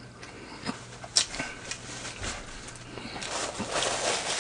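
A person eating at the microphone: chewing and mouth clicks, with a denser stretch of noise in the last second or so.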